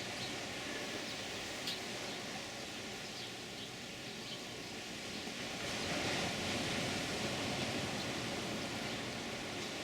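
Ocean surf breaking on the shore nearby, a steady wash of noise that swells about six seconds in as a larger wave comes in.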